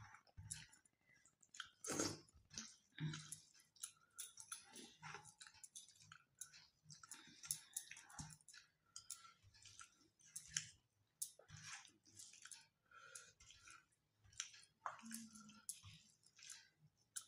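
Quiet close-up eating sounds: chewing and wet mouth noises of people eating rice and curry by hand, with irregular soft clicks and rustles, the sharpest about two seconds in.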